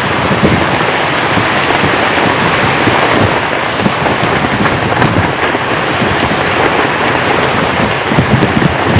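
Heavy downpour of rain, a loud, steady hiss of falling water thick with low pattering thuds and scattered sharp ticks of individual drops.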